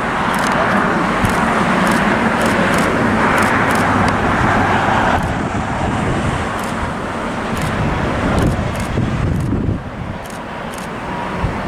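Loud, steady engine roar with a low rumble, strongest for about the first five seconds and then easing off.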